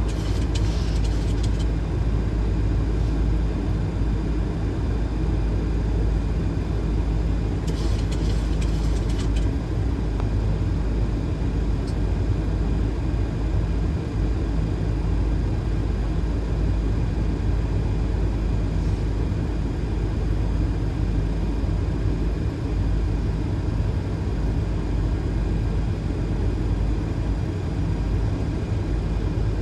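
Steady flight-deck noise of a Boeing 737 on approach: an even low rumble of airflow and engines. A brief hiss rises over it near the start and again about eight seconds in.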